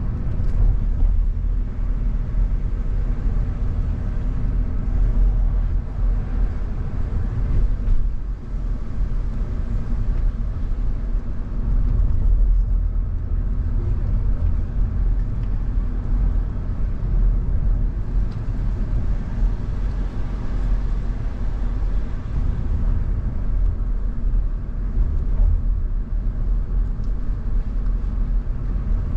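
Car being driven on a road: a steady low rumble of engine and road noise.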